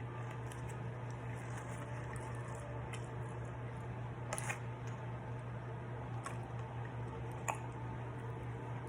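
Close-up mouth sounds of chewing a hamburger, with a few sharp wet clicks, the loudest about four and a half and seven and a half seconds in, over a steady low hum.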